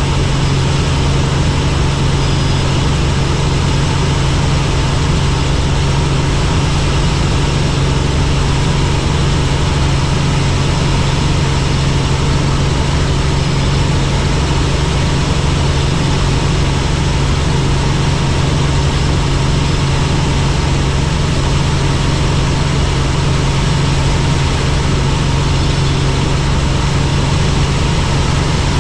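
Helicopter in flight: a loud, steady engine and rotor drone with a strong low hum.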